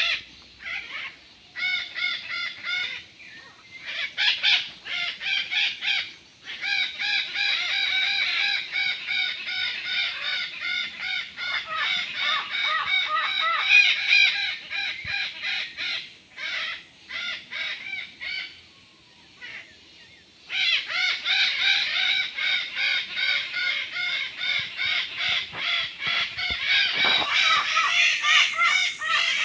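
A flock of parrots squawking: a dense chorus of harsh, rapidly repeated calls that drops away briefly about two-thirds of the way through, then starts up again.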